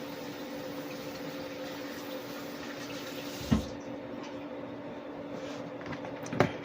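Kitchen tap running as hands are rinsed, shut off about three and a half seconds in with a knock; a second sharp knock comes near the end. A steady hum runs underneath.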